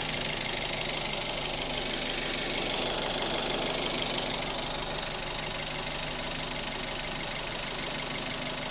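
A 2009 Toyota TownAce truck's 1.5-litre petrol four-cylinder engine running steadily at idle, swelling slightly in level partway through.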